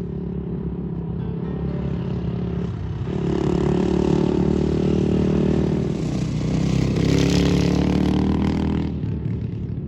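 A motor vehicle engine running and accelerating. Its note changes and grows louder about three seconds in and again around seven seconds, then drops away near the end.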